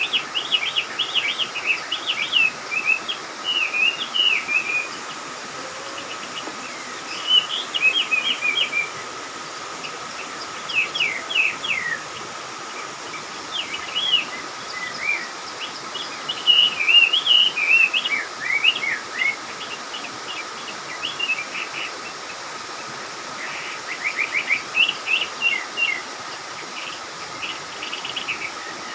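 Small birds chirping in bouts of quick, rapid chirps every few seconds, with a faint steady high tone underneath.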